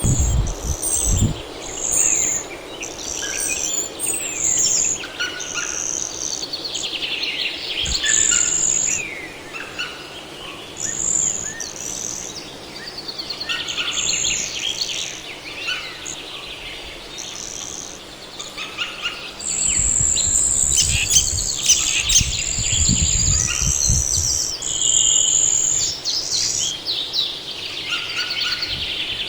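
Birds chirping continuously: many short, high whistled notes and fast trills overlapping, with a low rumble partway through.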